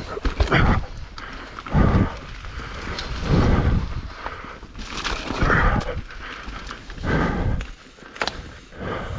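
A mountain biker breathing hard on the trail, with loud exhales about every one and a half to two seconds close to the microphone, over the rumble of tyres and the rattling bike.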